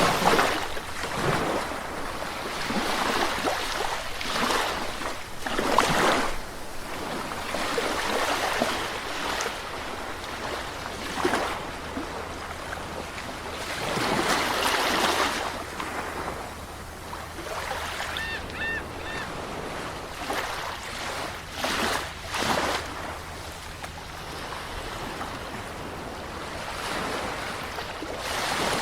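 Sea waves breaking and washing up a shore, the rush of surf swelling and fading in irregular surges every few seconds.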